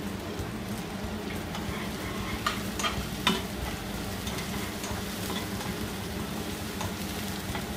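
Chopped onion, green chilli and ginger sizzling in hot ghee in a nonstick pan as a spatula stirs them. A few sharp clicks of the spatula against the pan come between about two and a half and three and a half seconds in.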